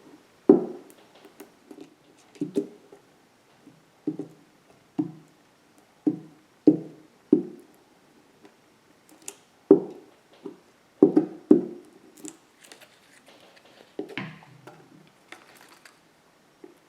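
Hollow knocks and taps at uneven intervals, about one a second, from a wooden art cradle panel being handled and pressed against the work table while glue is applied. Softer scraping and rubbing sounds follow near the end.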